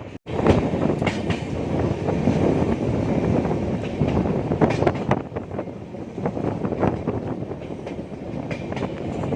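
Passenger train running along the track, its coach wheels clattering over the rails with a steady rumble. The sound drops out for a split second just after the start.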